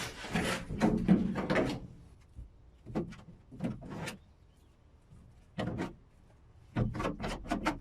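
Short clusters of scraping, rubbing and knocking from hand work on the pickup's steel box panel, where a fiberglass patch is being laid. A dense run of strokes comes first, then single knocks spaced about half a second to a second apart, then another run near the end.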